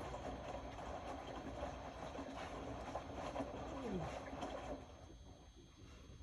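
Indesit Innex BWE 91496X washing machine tumbling a wash: the drum turns with water sloshing and irregular knocks of laundry. About four seconds in, a falling motor tone is heard as the drum slows, and the sound drops away about five seconds in as the drum stops between turns.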